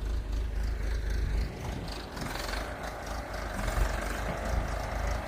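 Diesel engine of a backhoe loader running steadily at low revs, a continuous low rumble.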